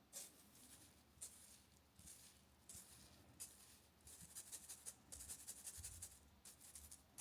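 Faint rustling and light ticking from something being handled close up, coming in short clusters that grow busier after a few seconds.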